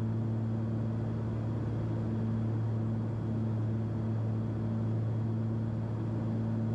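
Cessna 340's twin piston engines and propellers droning steadily in cruise, pulled back to 2,300 RPM, a low, even hum with no change in pitch.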